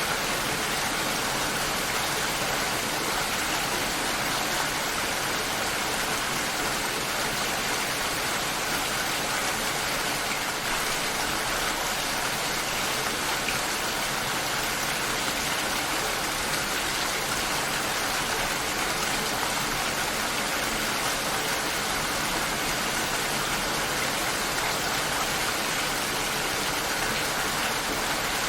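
Steady rain shower, an even hiss of rainfall that does not change.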